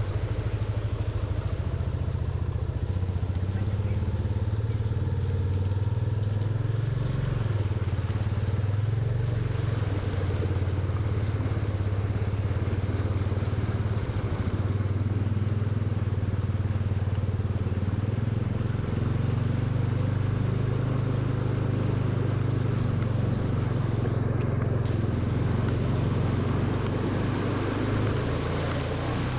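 Motorcycle engine running steadily, with a haze of road and water noise underneath.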